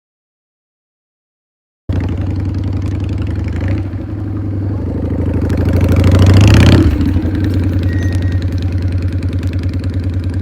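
Silence for about two seconds, then an engine running steadily at idle; about halfway through it is revved up gradually, drops back suddenly and settles to idle again.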